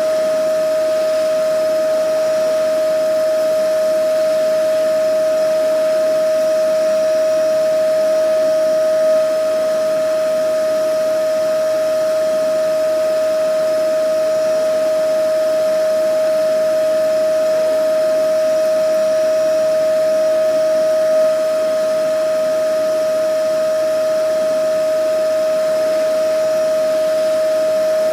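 Vacuum cleaner running steadily: an unchanging motor whine over a continuous rush of air.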